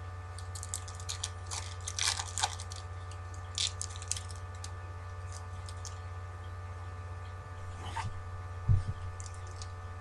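Crinkling and rustling of thin foil trading-card pack wrappers and cards being handled, in short irregular bursts, over a steady electrical hum; a soft thump about three quarters of the way through.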